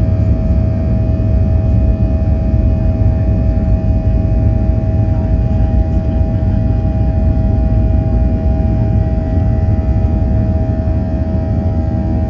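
Cabin noise of a Boeing 737-800 in flight: its CFM56 engines run steadily under power, with a deep rumble and a steady whine of several tones heard through the fuselage.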